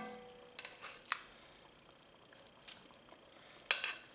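A metal utensil clinking against a skillet as browned cubed steaks are put back into the braising liquid, with small wet drips between the clinks. A sharp clink comes about a second in, and the loudest, briefly ringing one near the end.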